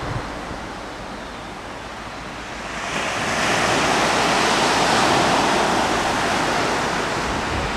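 Sea waves washing in: a steady rush of surf that swells about three seconds in and slowly eases off.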